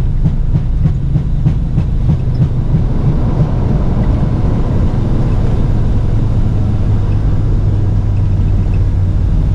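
Loud low rumble in an airliner's cockpit as the aircraft rolls on its wheels along the runway or taxiway, with irregular rattling knocks in the first two seconds. A low hum grows stronger about seven seconds in.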